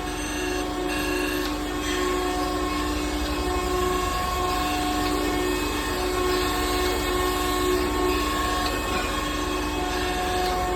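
Surface grinding machine running: a steady mechanical whine over a low hum, with several held tones that drop in and out every second or two.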